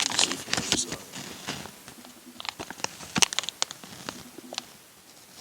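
Scattered small clicks and light crinkling of plastic parts being handled at the overhead map light of a car's interior, irregular and uneven in loudness.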